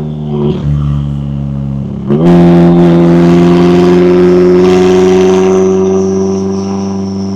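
McLaren 570S twin-turbo V8 running steadily, then the throttle opens about two seconds in. The engine note jumps louder and climbs slowly in pitch for several seconds with a thin high whine above it, easing slightly near the end.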